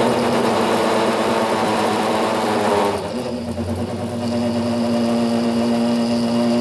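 A motor running steadily with a pitched hum. A harsher noise on top of it stops about three seconds in, and the hum carries on.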